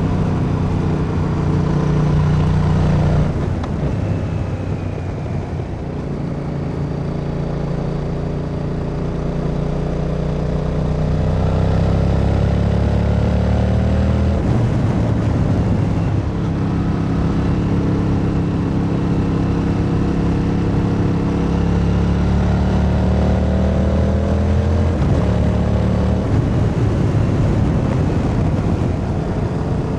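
Yamaha MT-07's 689 cc parallel-twin engine under way, its note climbing as it pulls through the revs. The pitch breaks at gear changes about three, fifteen and twenty-five seconds in.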